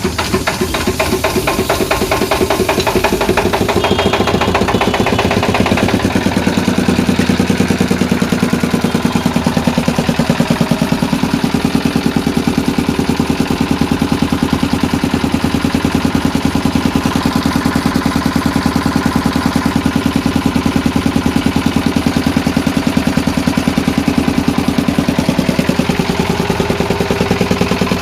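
Air compressor running with a steady, fast pulsing chug. About six seconds in it settles into a deeper, even run.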